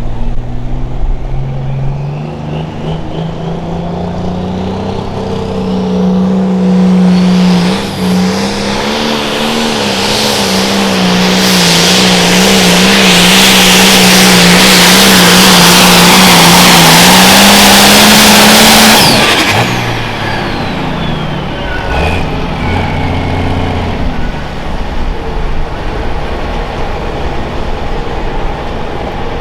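Turbocharged diesel engine of a 4.1 Limited Pro Stock pulling tractor throttling up with a rising turbo whine, then running loud at full throttle under load for about twelve seconds. About two-thirds of the way through it suddenly throttles back, and the turbo whine falls away as the engine drops to a lower run.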